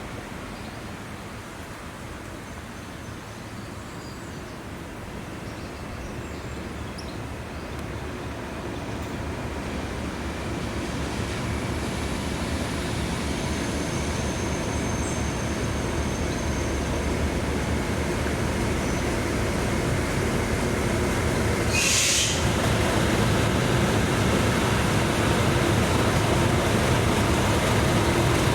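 A diesel locomotive and its train approach, the engine and rail noise growing steadily louder. There is a short, sharp high hiss about three-quarters of the way through.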